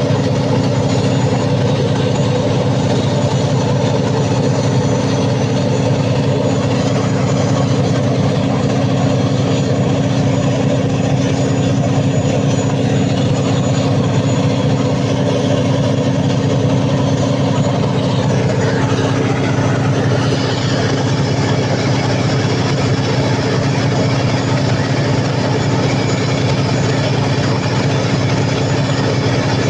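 Cummins KTA50 V16 diesel engine of a 750 kW generator set running steadily during a load test after a general overhaul. A brighter hiss joins the engine note about twenty seconds in.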